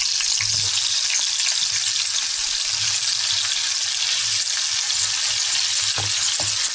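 Tofu cubes sautéing in hot olive oil in a wok: a steady, dense frying sizzle.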